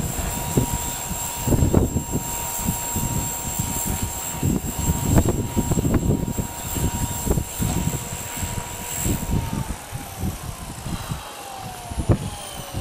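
Whine of a Walkera V400D02 brushed-motor RC helicopter's motor and rotor holding a steady pitch, with wind gusts buffeting the microphone. About nine seconds in the whine falls steadily in pitch as the rotor winds down.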